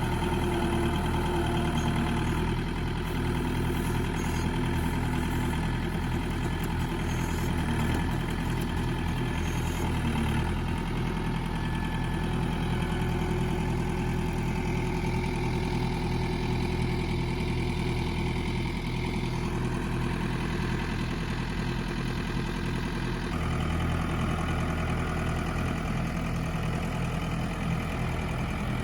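Farm tractor engine running steadily, its note shifting about ten seconds in and again near the end.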